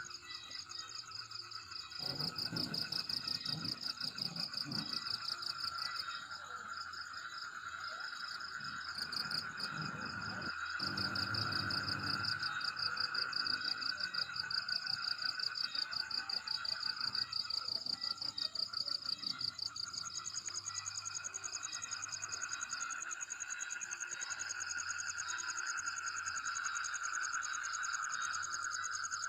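A chorus of insects trilling steadily, several rapid pulsing trills at different pitches overlapping.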